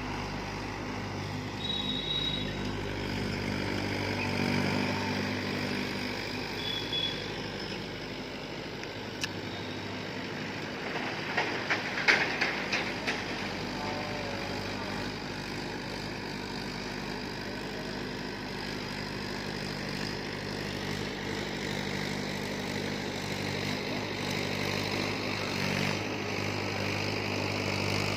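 Farm tractor's diesel engine running steadily, with a short spell of clattering knocks about twelve seconds in.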